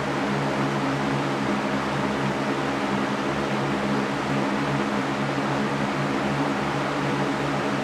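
Electric fan running steadily: an even rush of air with a low motor hum beneath it.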